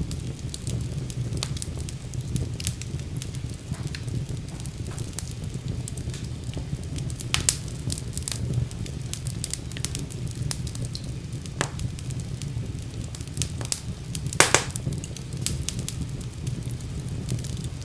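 Wood fire in a fireplace crackling over a low, steady rumble of flame, with scattered sharp pops. A few pops are louder than the rest, the loudest about three quarters of the way through.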